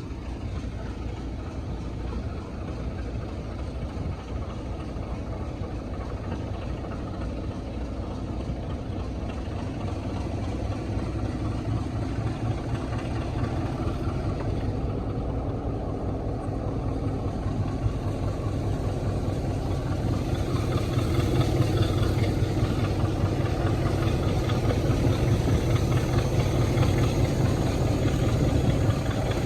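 Heritage diesel locomotive engine running steadily with a deep, low throb, growing gradually louder, most of all from about twenty seconds in.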